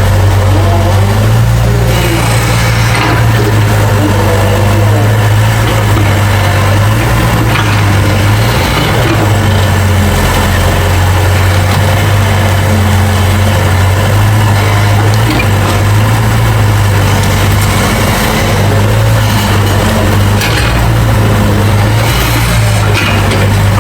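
Diesel engine of heavy earthmoving machinery running steadily with a loud, low drone.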